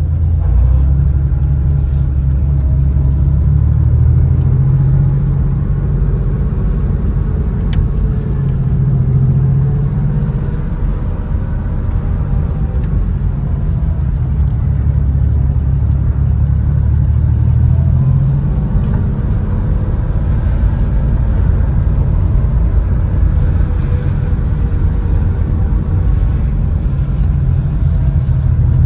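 Porsche 964 Carrera 2's air-cooled 3.6-litre flat-six heard from inside the cabin while driving, a steady low engine note whose pitch shifts a couple of times, about ten and eighteen seconds in.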